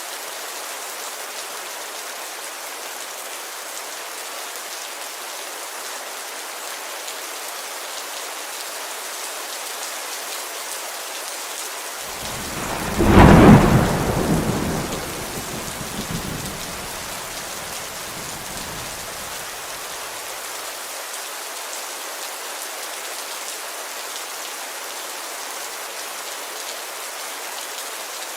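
Steady heavy rain falling on a window, with one thunderclap a little before halfway through that cracks loudly and rumbles away over several seconds.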